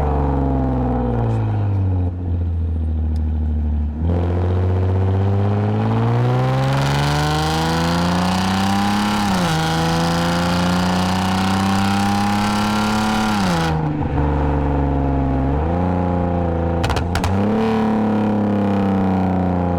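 The 2010 Lexus IS250 AWD's 2.5-litre V6 through its aftermarket exhaust with valved mufflers, accelerating. The revs fall, then climb steadily, dip briefly around nine seconds in as it shifts up, and climb again. From about six seconds in it sounds louder and rougher, until the throttle is released about fourteen seconds in and the engine settles to a steady cruise, with a few sharp clicks near the end.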